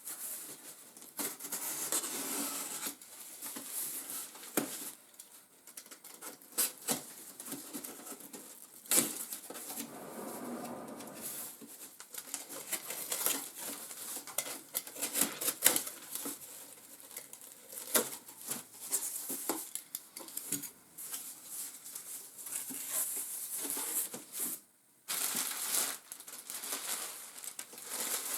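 Packaging and boxes being handled while a shipping box is unpacked: rustling and scraping, with many sharp clicks and knocks.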